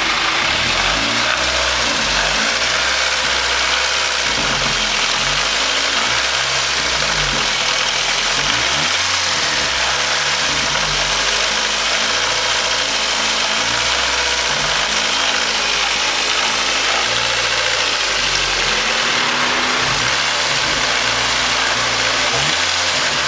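Car engine running with a steady loud noise, its low tones rising and falling every few seconds; the owner hears a weird knocking and grinding in it and does not know the cause.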